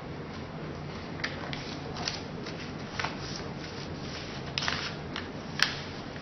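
Paper being folded and creased by hand: short rustles and crinkles every second or so, with a sharper click near the end.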